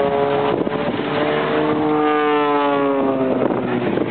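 Aircraft flying past at an air show: a droning engine note whose pitch slides slowly downward as it passes, over a steady rush of wind and noise.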